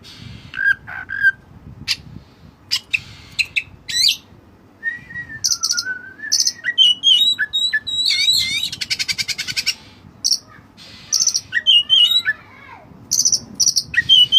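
White-breasted kacer (oriental magpie-robin) singing a varied, fast song of short whistles, slurred phrases and clicks, with a rapid rattling trill a little past the middle. The song is filled in with learned cililin notes.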